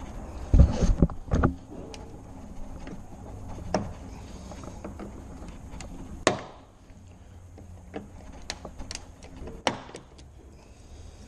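Knocks and clicks of hands working on a car door and its outside handle parts. There is a cluster of low thumps about a second in, then single sharp clicks spread through the rest.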